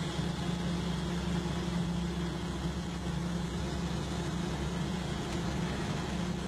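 Car engine running steadily while driving, heard from inside the car.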